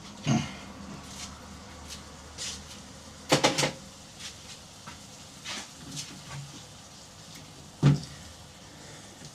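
Knocks and clatters in a kitchen during cooking: a knock about a third of a second in, a quick cluster of three or four about three and a half seconds in, and one loud knock near the end, with softer ticks between.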